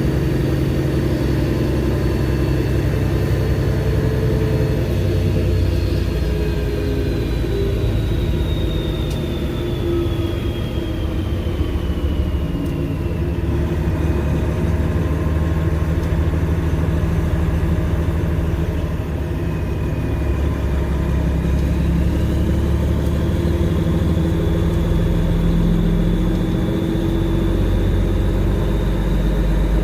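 Semi truck's Detroit Series 60 diesel engine running at low speed, a steady drone with a high whine over it. The whine slowly falls in pitch, then rises again past the middle.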